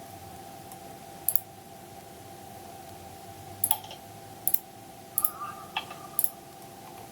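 Computer mouse clicking about six times, most clicks a quick double snap, over a steady faint hum.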